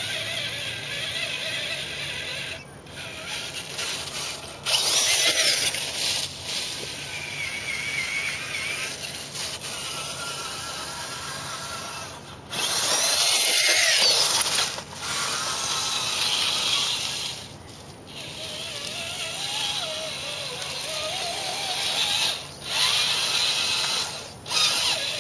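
RC crawler's Traxxas Titan 550 12-turn electric motor and geared transmission whining, the pitch rising and falling as the throttle changes, with several louder full-throttle bursts and a few brief stops.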